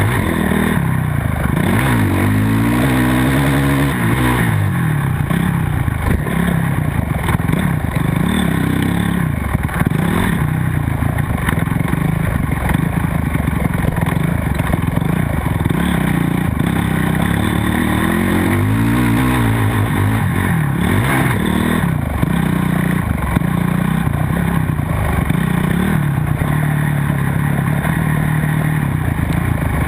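Motocross bike engine under race load, revving up and dropping back again and again as it accelerates and shifts.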